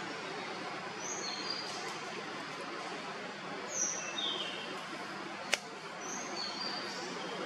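Outdoor ambience: a steady hiss with short, high bird chirps in three small groups, and one sharp click about five and a half seconds in.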